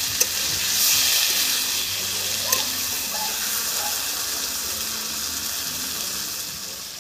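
Marinated chicken and onions sizzling in hot oil in an iron kadai, stirred with a metal spatula that clicks against the pan a couple of times. The sizzle swells about a second in and eases off near the end.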